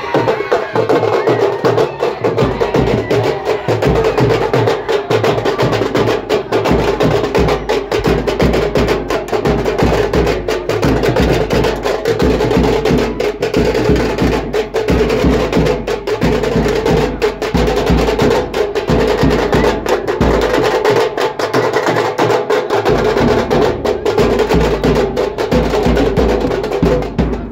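Fast band drumming on tingri drums: a dense, rapid stream of stick strokes over deep bass drum beats, continuing without a pause. The bass beats drop out for a couple of seconds past the middle, and the drumming cuts off at the very end.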